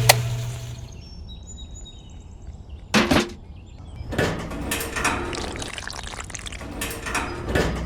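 Water pouring and splashing in short spells, the loudest a brief burst about three seconds in.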